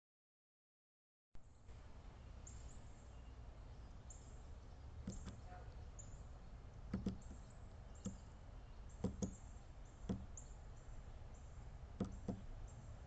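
A bird pecking at suet in a wire suet cage on a feeder: irregular sharp taps, some in quick pairs, over a steady low hum. The sound starts after about a second of dead silence.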